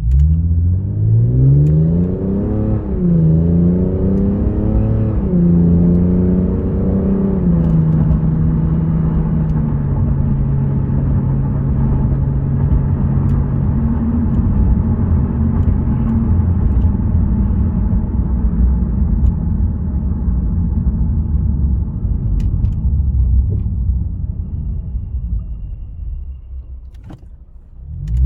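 Interior sound of a 2015 Lexus RC350 F Sport's 3.5-litre V6 through a Remark axle-back muffler, in Sport Plus mode. The engine pulls hard with rising revs through two quick upshifts in the first several seconds, then settles to a steady cruise. It eases off near the end and starts pulling again.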